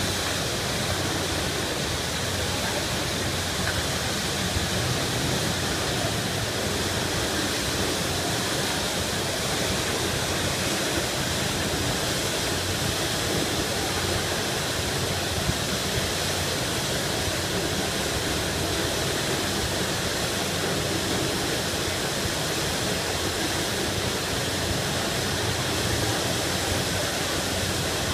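Steady, unbroken rush of water from a fire hydrant broken off by a truck, the main sheared open and shooting a high-pressure geyser.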